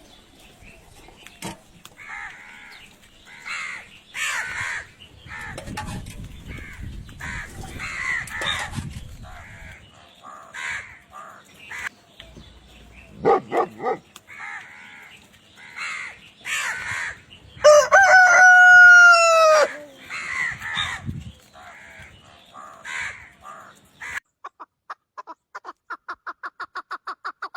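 Chickens clucking on and off, with a rooster crowing once, loudly, for about two seconds roughly two-thirds of the way through. Near the end a fast, even run of short calls takes over.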